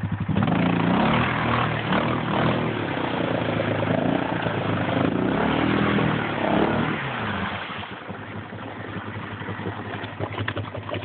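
Yamaha Grizzly 600 ATV's single-cylinder engine revved up and down about four times, the wheels straining against deep mud in a flooded hole, then dropping back to a steady idle about eight seconds in. Its exhaust pipe sits underwater.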